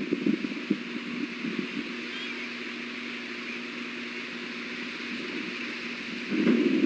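Wind buffeting the outdoor nest-camera microphone in gusts, strongest at the start and again near the end, over a steady low hum and hiss.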